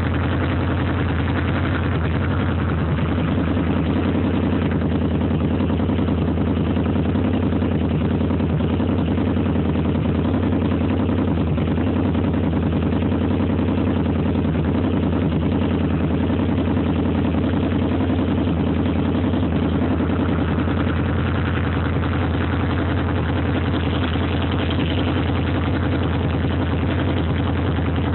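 Motorcycle engine idling steadily, an even low drone that holds at one pace throughout.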